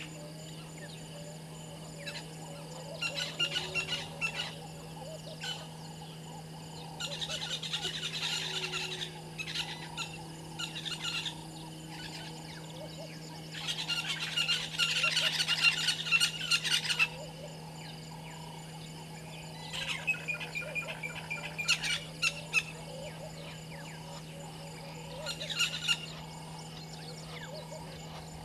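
Birds calling in bursts of rapid, high-pitched chattering, a few seconds apart, the longest and loudest about halfway through, over a steady low hum.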